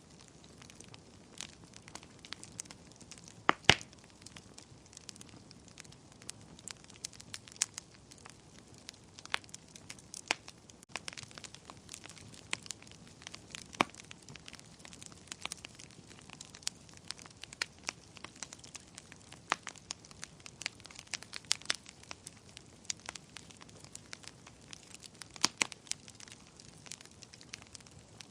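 Fire burning in a fireplace, crackling with irregular sharp pops over a faint hiss; the loudest pops come about three and a half seconds in and near the end.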